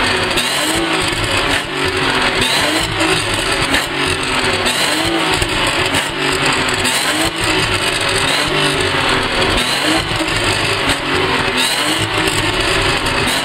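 BMW E36 320i's M50B20 2.0-litre inline-six with VANOS, its cat and resonators deleted and a straight pipe run to the stock muffler, revved repeatedly. The pitch rises and falls about once a second, in quick throttle blips.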